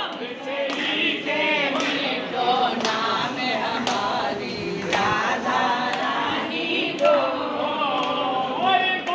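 A group of voices singing a devotional chant together, with several melodic lines overlapping without a break.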